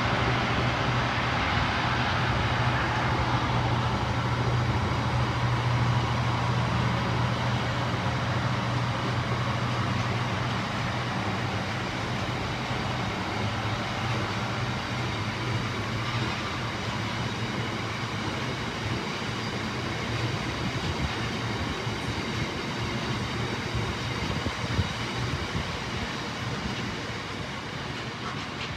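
A train running on the line, a steady low hum with rail noise that slowly fades over the span.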